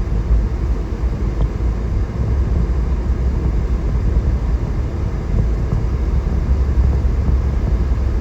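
Steady low rumble of engine and tyre noise heard inside a four-wheel-drive vehicle's cabin while driving.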